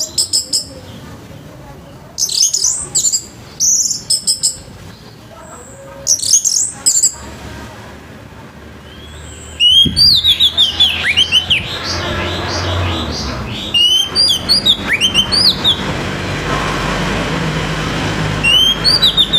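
Orange-headed thrush singing in loud phrases of quick, high notes: short groups in the first seven seconds, then a long run of rapid falling notes from about ten seconds in, and another phrase near the end. A low rumble sits underneath in the second half.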